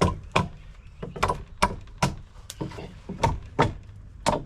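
Hammer blows on wooden deck boards, about a dozen sharp strikes at an uneven two to three a second.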